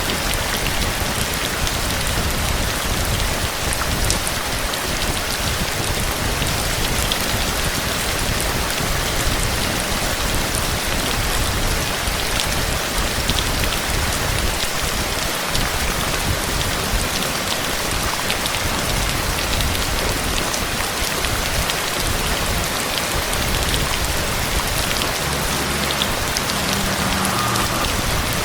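Heavy, steady rain pouring and drumming on surfaces, with scattered individual drop impacts.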